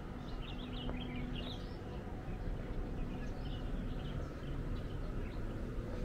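Small birds chirping in short, scattered calls over a low, steady rumble of city background noise.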